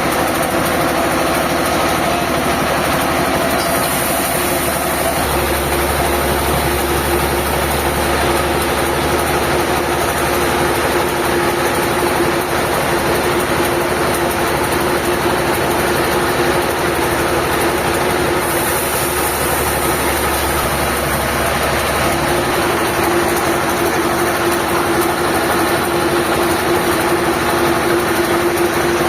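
Diesel engine of sawmill machinery running steadily with a constant hum; its tone changes abruptly a few times.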